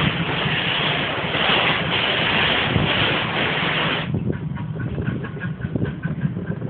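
Small park ride-on train moving off: a low engine rumble under a steady hiss that cuts off suddenly about four seconds in, after which faint regular clicks of the wheels on the track come through.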